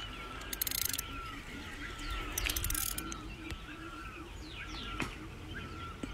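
A bird calling the same short, curving chirp over and over, about one and a half times a second. Two brief rasping bursts come about a second in and again about two and a half seconds in.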